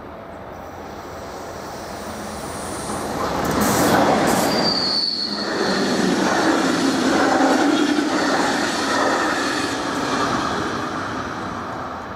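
Intercity passenger train of SNCB coaches passing at speed over a level crossing: the wheel and rail noise builds to a peak about four seconds in, holds, then fades near the end as the train moves away. A brief high-pitched tone sounds about five seconds in.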